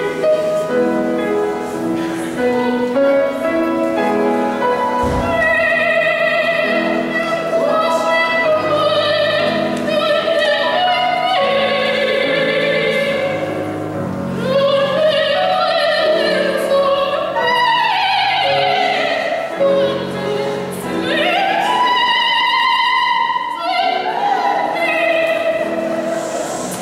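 Classical, operatic-style singing with vibrato on long held notes, over instrumental accompaniment.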